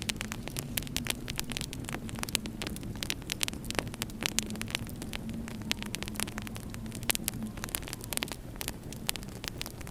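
Wood fire in a fireplace crackling, with many sharp irregular pops and snaps over a low steady rumble and a faint wavering low drone.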